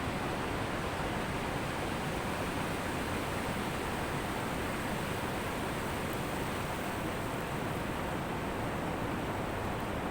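Ocean surf on a beach, a steady, even wash of noise with no distinct rise and fall of single waves.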